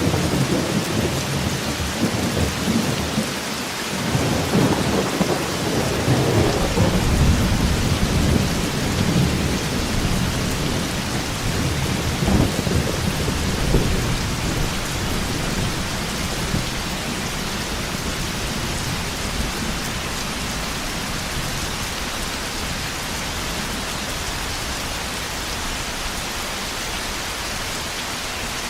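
Thunderstorm: steady heavy rain with rolling thunder that rumbles through the first half and dies away, leaving only the rain hiss.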